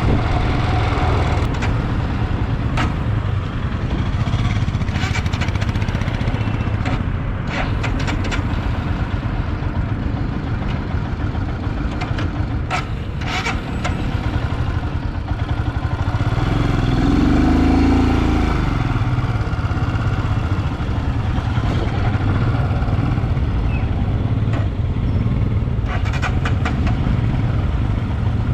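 Motorcycle engine running steadily while riding, with road and wind noise. About 17 seconds in, a louder vehicle sound swells up and fades.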